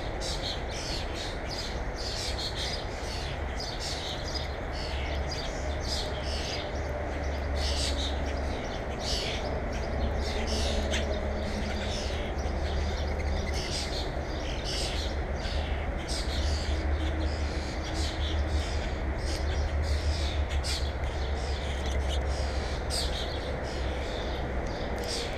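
Birds chirping again and again, many short high chirps following each other throughout, over a steady low rumble.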